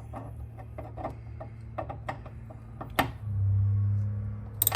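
Small metallic clicks and taps of hand tools and the mower's tensioner parts being handled as the pivot nut is tightened and tested, with a sharp click about three seconds in. A low steady hum follows for about a second, and two quick clicks come near the end.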